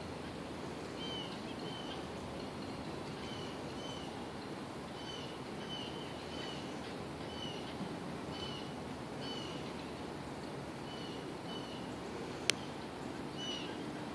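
A small bird chirping, short repeated chirps in uneven runs, over steady background noise. A single sharp click near the end.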